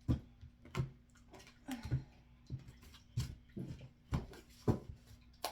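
Tarot cards being shuffled and handled by hand, with a string of soft irregular taps and slaps about once or twice a second.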